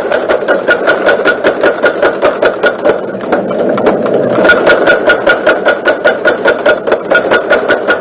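Homemade motor-driven power hammer running, its ram striking rapidly and evenly, about four to five blows a second over the motor's hum. The blows soften briefly around the middle, then pick up again.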